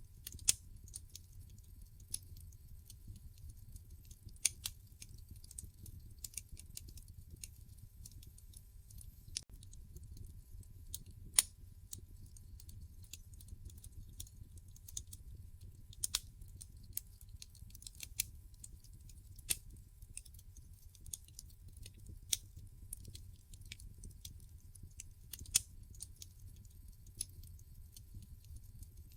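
Wood fire crackling in a fireplace: irregular sharp pops and snaps from the burning logs over a low, steady rumble of the flames. The loudest snap comes about eleven seconds in.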